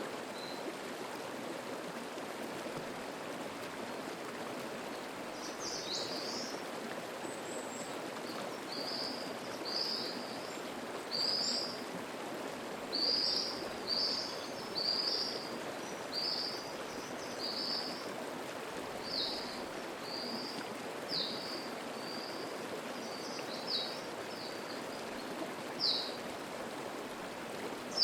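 Mountain stream flowing steadily over rocks, with a songbird giving a long series of short, high, repeated notes, about one a second, starting about six seconds in.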